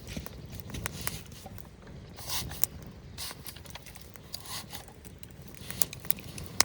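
Irregular scrapes, rustles and light clicks of something being handled by hand, with a few sharper ticks near the end, over a low steady rumble.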